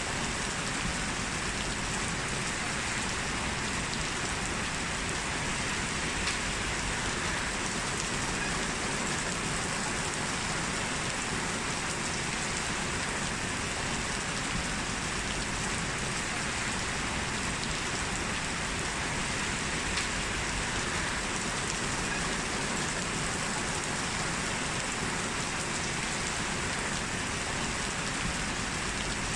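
Heavy rain falling steadily, an even hiss of downpour with faint scattered drop ticks.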